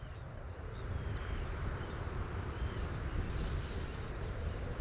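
Outdoor ambience fading in: a steady rush with an unsteady low rumble like wind on the microphone, and faint short high chirps now and then.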